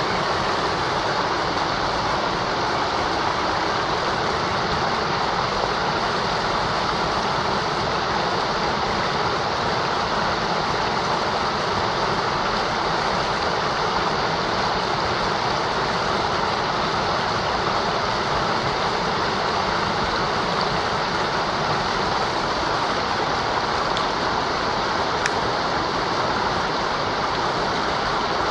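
Mountain river rushing over rocks, a steady dense roar of running water that stays even throughout.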